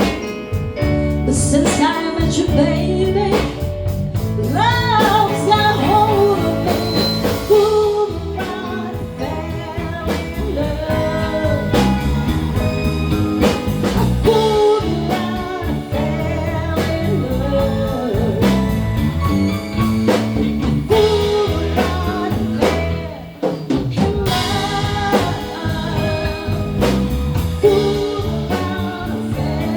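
Live band playing a song: a singer's voice over guitar and drum kit, with a short dip in loudness about two-thirds of the way through.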